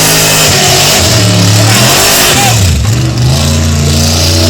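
Modified competition engine at full throttle during a timed run, loud and steady, with its pitch dipping briefly near the middle and climbing again.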